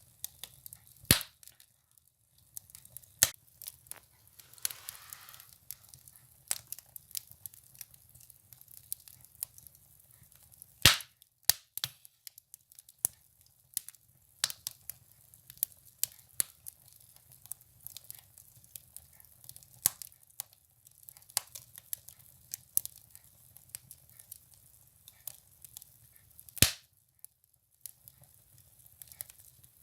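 Firewood burning in a stove: irregular crackles and snaps, with a few loud pops, about a second in, about eleven seconds in and near the end. A brief hiss comes about five seconds in.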